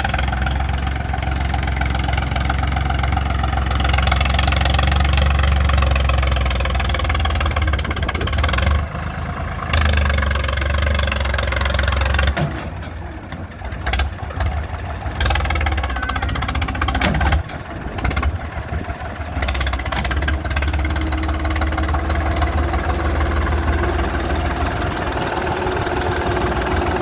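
Eicher 368 tractor's diesel engine running with a steady, heavy low thump. It eases off for short spells about a third and two thirds of the way in, then settles back to a steady run.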